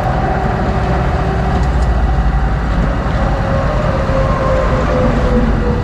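Freeway traffic going past: a steady, loud rumble of cars and trucks, with the drone of vehicle engines.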